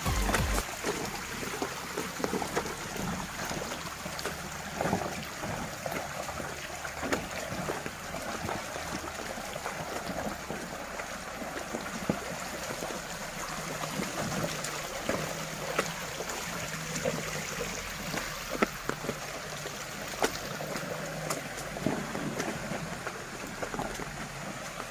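Heavy rain and a loaded 4x4 pickup on the move: a steady hiss of rain and wet road with scattered sharp clicks, and the engine's low hum underneath, plainer about halfway through.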